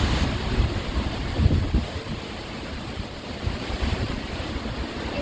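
Strong wind buffeting the microphone in gusts, a low rumbling over a steady rushing hiss, strongest in the first couple of seconds.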